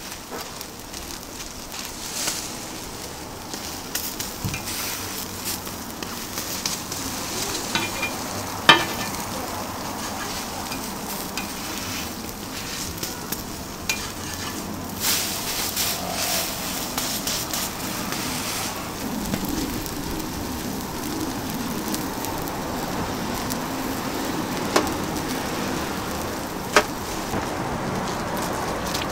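Cabbage-and-egg omelette patties and bread sizzling steadily on a flat-top griddle, with a few sharp clicks now and then.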